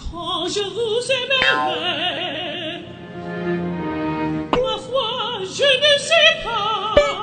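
Operatic singing with a wide vibrato, sung in short phrases; a new phrase starts about four and a half seconds in.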